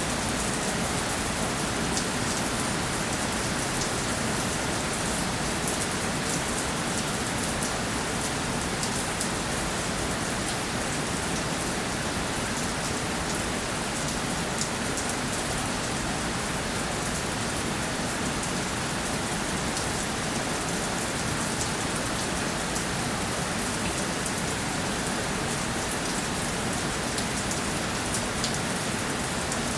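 Steady rainfall pattering on a surface, an even hiss of rain with many small drop ticks throughout.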